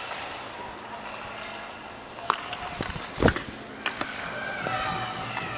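Skates scraping and gliding on ice, with sharp stick-and-puck clacks; one hard knock, the loudest sound, comes about three seconds in. Faint shouting voices come in near the end.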